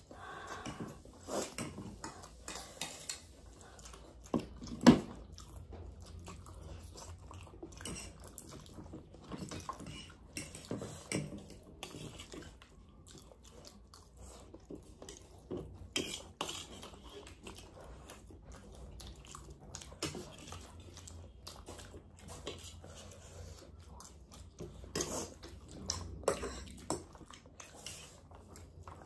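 Two people eating noodles: slurping and chewing, with forks clinking and scraping on ceramic bowls and plates in scattered short clicks, one sharper clatter about five seconds in.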